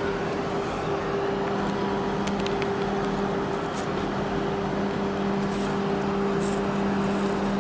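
A steady machine hum, one constant low tone with an even wash of outdoor noise beneath it, and a few faint ticks about two and a half and four seconds in.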